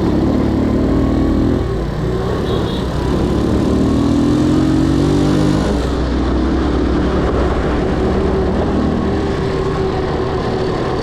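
Motorbike engine accelerating in two rising surges in the first six seconds, then running steadier, over constant wind and road noise.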